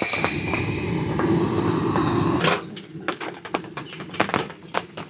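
Gas camp stove burner running with a steady rush that stops abruptly about two and a half seconds in, followed by scattered light ticks and taps.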